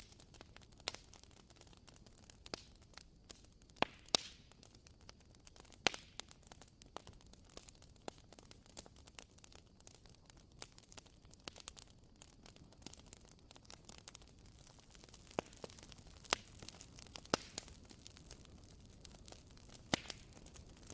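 WoodWick candle's wooden wick crackling as it burns: faint, irregular sharp pops and ticks over a low steady hiss, a few of them louder, like a small campfire.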